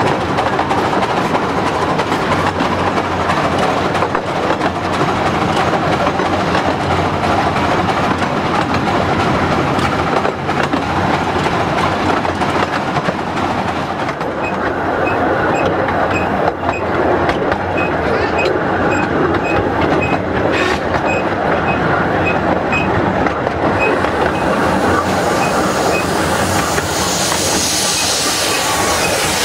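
Carriage wheels of a 15-inch-gauge miniature steam railway running on the track, a steady rumble and rattle heard from an open carriage. A regular light clicking comes in about halfway through. Near the end steam hisses loudly from a locomotive.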